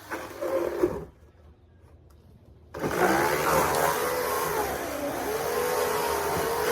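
A power saw cutting into a hot tub shell. It runs briefly, stops for about two seconds, then starts again and runs steadily, its pitch wavering up and down as the load changes.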